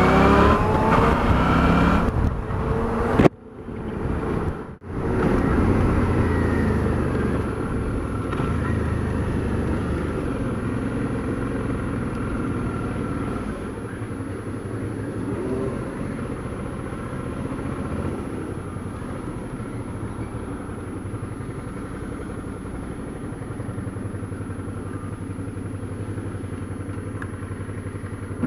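Suzuki V-Strom 650's V-twin engine under way, rising in pitch as it accelerates at first, then running steadily at cruise. The sound cuts out twice briefly a few seconds in.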